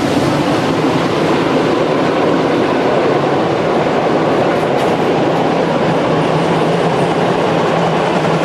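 Train running on the track, a loud steady running noise with a low steady hum underneath.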